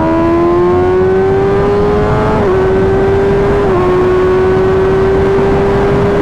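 Inline-four engine of a 2024 Kawasaki Ninja ZX-6R pulling hard at high speed, its pitch rising. It drops twice, about two and a half and nearly four seconds in, as the rider upshifts. Heavy wind rush on the helmet microphone.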